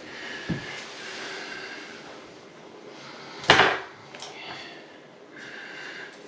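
Bathroom faucet being worked by hand: a low knock about half a second in, then a short, loud burst of noise about three and a half seconds in, over a faint steady tone.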